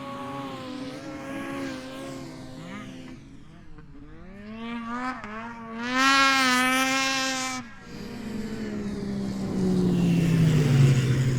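Snowmobile engines revving and running past. One revs up loudly about six seconds in and cuts off sharply a moment later. Then another passes with its pitch falling steadily near the end.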